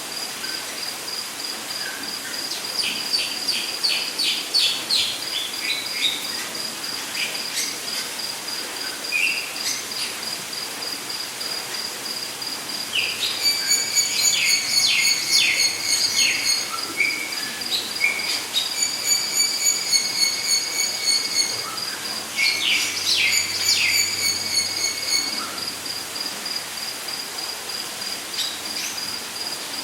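Rainforest ambience: an insect, such as a cricket, trills steadily at a high pitch. Birds call over it in several bursts of quick repeated chirps and whistles, the loudest coming through the middle of the stretch.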